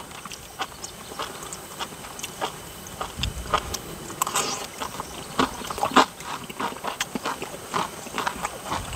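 A person chewing and biting crunchy breaded, fried sea bass cutlet, with irregular crisp crunches.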